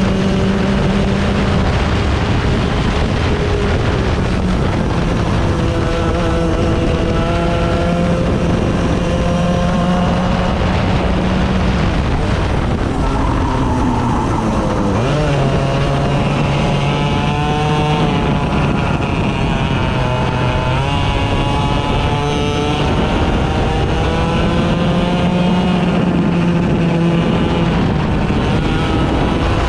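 Several 100cc racing engines running on track at once, each engine's pitch climbing and dropping repeatedly as it accelerates and slows through the corners.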